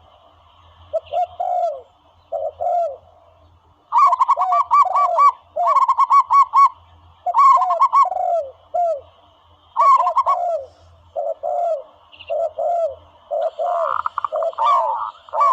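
Recorded dove calls played as a hunting lure: repeated phrases of quick staccato coos, each followed by lower falling notes, with short pauses between phrases.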